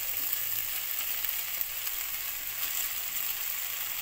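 Steady sizzling of stir-fried vegetables in hot oil in a kadhai.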